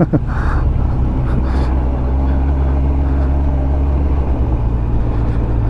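2001 Yamaha FZS1000 Fazer's inline-four engine running steadily at a constant pitch while riding.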